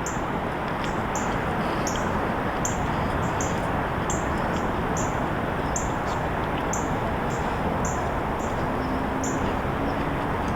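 A short, high, bird-like chirp repeating about every three-quarters of a second over a steady rushing noise. A few soft musical notes come in near the end.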